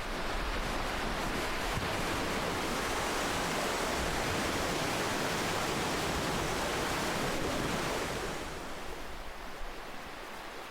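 Ocean waves washing on a shore: a long rush of surf that builds over the first couple of seconds, holds steady, then fades back to a softer wash about eight seconds in.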